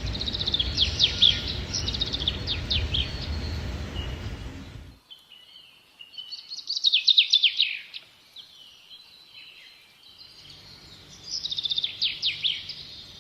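Songbird singing three bursts of rapid, falling high chirps a few seconds apart, over a low outdoor rumble that drops away abruptly about five seconds in.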